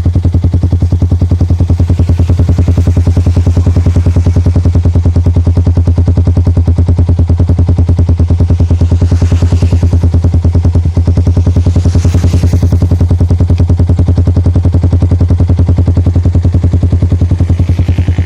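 Single-cylinder Yamaha motorcycle engine idling steadily through an aftermarket full-system racing exhaust, with a loud, even, rapid pulsing note.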